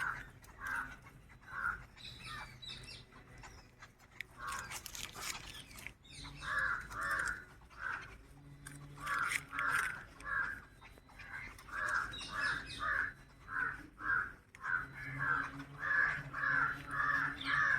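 Crows cawing over and over in runs of harsh calls, about two a second, thickest near the end, with a few short clicks in between.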